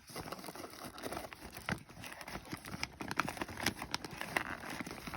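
Packaging rustling and crinkling with many small irregular clicks and knocks as fireworks are handled and taken out of the assortment box.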